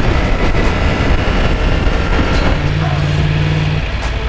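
Yamaha MT-10's crossplane inline-four engine pulling the bike along at road speed, with wind rushing over the microphone. The engine settles into a steady note from about halfway in and briefly falls away near the end.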